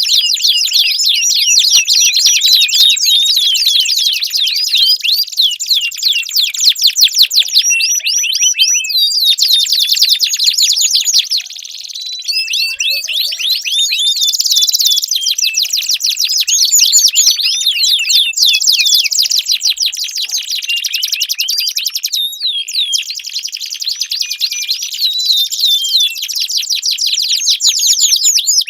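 Domestic canary singing a long, nearly unbroken song of high, fast trills and rolling chatter, with a few brief pauses.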